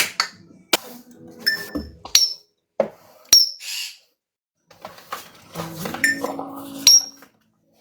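African grey parrots making sharp clicks and short high chirps and whistles, with a brief pause near the middle. Lower, voice-like warbling sounds come in the last couple of seconds.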